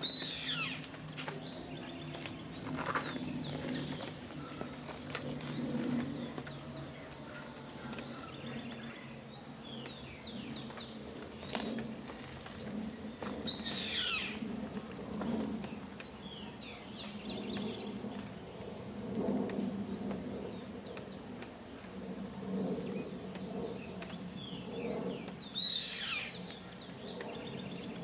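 Yellow-headed caracara calling three times, about twelve seconds apart: each call is loud and falls steeply in pitch. Under it run a steady high-pitched hum and softer chirps.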